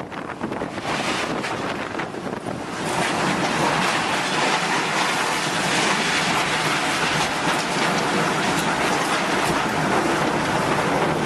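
Violent storm wind blowing as a dense, steady rushing noise, growing louder about three seconds in.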